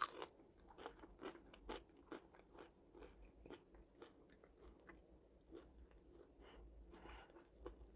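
Faint close-up chewing of homemade fries: small irregular crunches and wet mouth clicks, with one sharper click right at the start.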